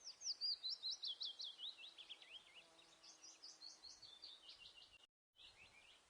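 A songbird singing a fast run of short, high chirps, several a second, loud at first and fading. The song breaks off in a brief dead silence about five seconds in, then a few more chirps follow.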